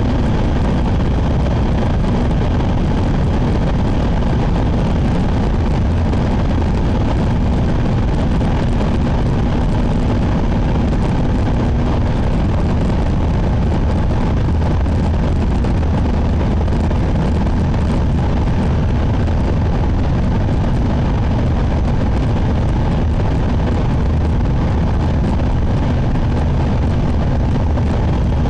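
Shinkansen bullet train running at speed, heard from inside the passenger cabin: a loud, steady rumble of running noise with a faint constant hum.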